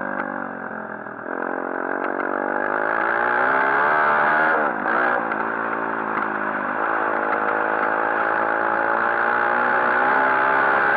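140cc pit bike's single-cylinder four-stroke engine being ridden hard on the throttle: the revs drop at the start, climb again, dip briefly about halfway through, then hold high to the end.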